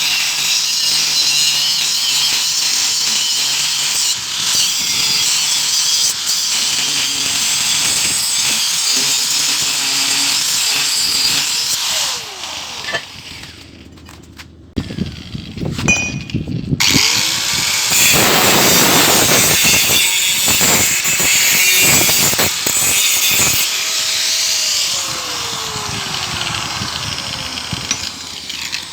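Power tools working metal: a steady, hissing run of cutting or grinding for about twelve seconds, a short lull, then louder tool noise again, with a motor's pitch sliding down a few times as it slows.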